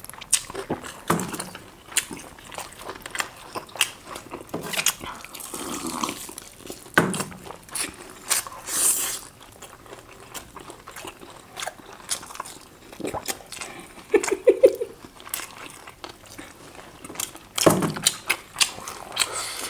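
People chewing and biting chicken leg pieces, with many small wet mouth clicks and smacks. A brief hum comes about fourteen and a half seconds in.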